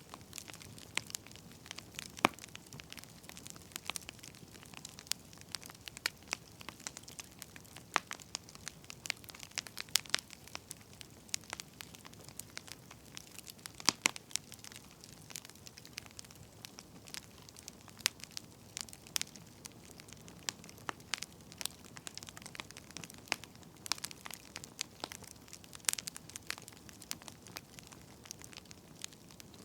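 Firewood burning, crackling and popping irregularly, with sharp snaps every second or so over a faint hiss.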